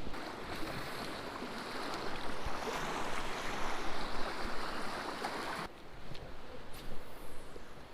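Creek water rushing over rocks, a steady hiss that drops off abruptly to a quieter hiss near the end.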